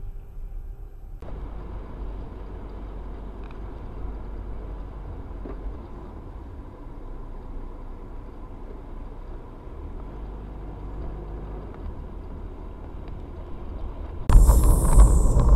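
Steady low road and engine rumble of a car driving, as picked up by a dashcam. Near the end it jumps abruptly to much louder vehicle noise.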